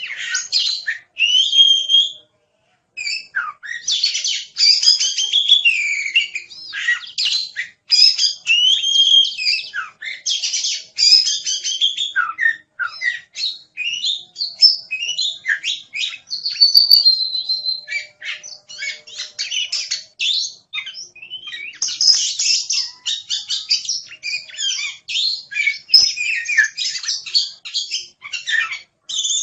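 Oriental magpie-robin (kacer) singing a long, rich run of fast whistles, trills and chattering notes, breaking off once for under a second about two seconds in.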